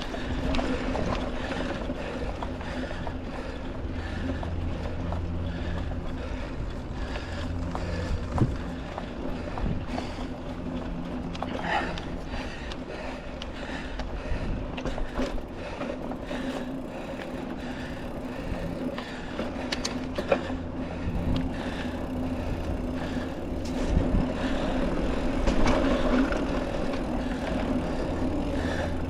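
Mountain bike rolling along a dirt trail: knobby tubeless tyres give a steady hum under a low wind rumble on the helmet-camera microphone. The frame rattles and knocks sharply a few times over bumps.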